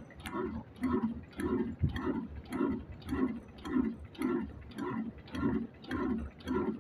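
Old Ruston slow-speed stationary diesel engine (a 'desi kala engine') running steadily, with an even, slow chuff of just under two beats a second.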